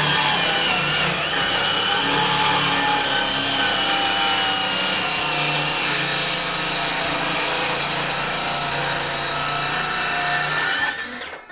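Power saw cutting through wood, its motor pitch sagging and recovering under load, then stopping about eleven seconds in.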